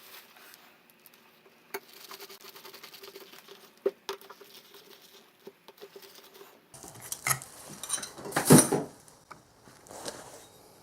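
Small clicks and handling noises of parts being worked by hand, over a faint steady hum. About seven seconds in it gets busier, with a louder clatter shortly after.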